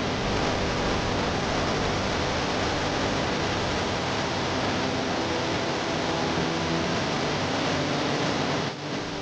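Waterfall: a steady, dense rush of falling water, dipping briefly near the end.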